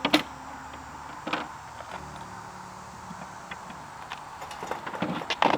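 A few light knocks and clicks from handling wooden boards and tools, about three in all with the last near the end, over a faint steady hum.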